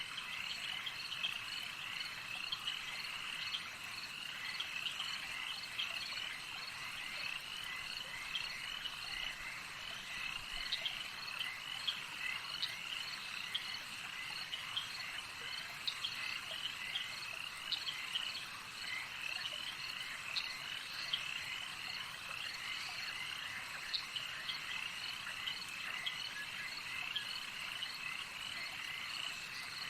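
Dense night chorus of chirping crickets: many overlapping short, high-pitched calls run together into a steady trill, with scattered sharper clicks.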